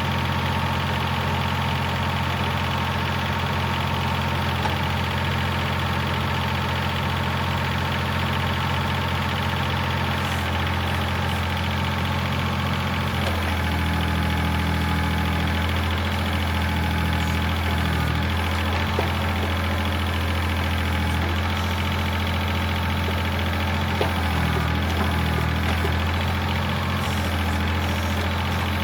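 Tractor engine idling steadily; its note shifts slightly about halfway through, then holds steady again.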